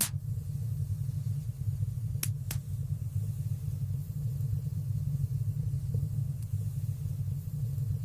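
Wood fire burning in a stone fireplace: a steady low rumble of flames with a few sharp crackling pops, one right at the start and two in quick succession about two seconds in.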